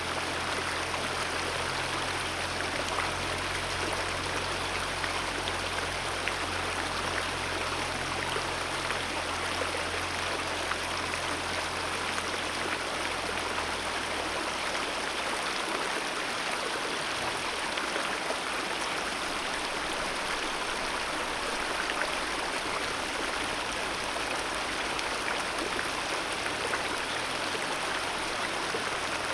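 Alpine mountain river flowing: a steady, even rush of water. A faint low hum sits underneath and fades out about halfway through.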